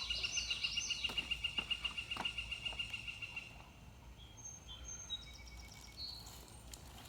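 A bird singing a fast, even trill of chirps for about three and a half seconds, followed by a few short, scattered whistled notes.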